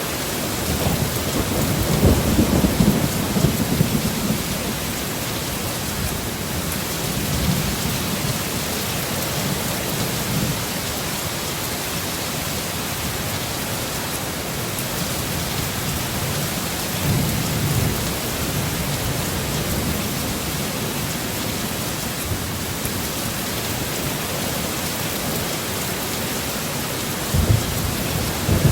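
Heavy rain pouring steadily, with rolls of thunder rumbling in low swells every several seconds and a sharper crack near the end.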